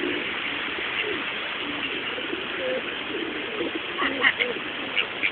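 Feral pigeons cooing in low, wavering calls over a steady background hiss.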